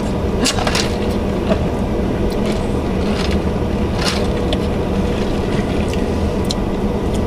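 Steady hum of a car idling, heard from inside the cabin, with a few faint clicks scattered through it.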